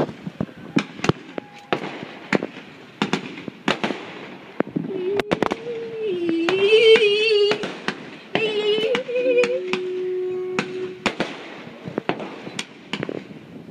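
Fireworks display: a steady run of sharp bangs and crackling bursts. From about five seconds in, a wavering pitched tone runs for about four seconds, followed by a short steady tone.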